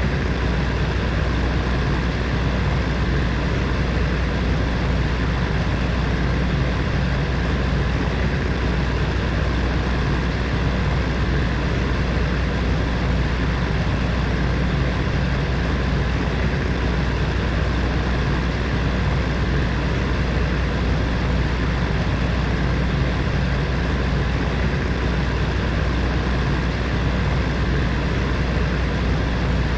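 Heater fan running steadily: a constant whoosh of moving air over a low, even motor hum.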